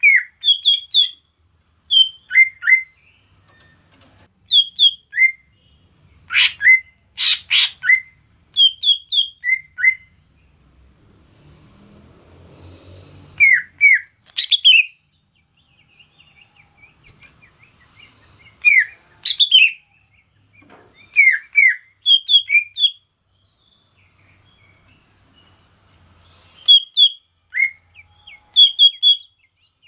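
Green leafbird (cucak ijo) calling in short, sharp whistled notes, mostly in quick pairs and short runs with pauses between, over a steady high hiss.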